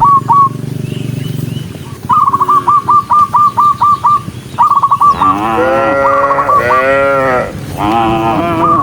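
Cattle mooing: a low drawn-out call at first, then several long moos overlapping in the second half. About two seconds in comes a quick run of about ten short, clipped calls.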